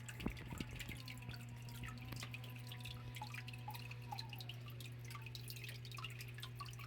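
Water trickling and dripping from a small stone waterfall into a biotope pond: many quick drips and plinks with a few louder splashes, over a steady low hum.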